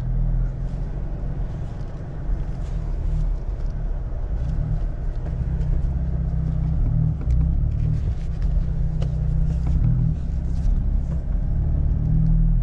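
Jeep Gladiator's engine running at low speed as it idles away in two-wheel drive, a steady low rumble heard from inside the cab, with scattered faint clicks over it.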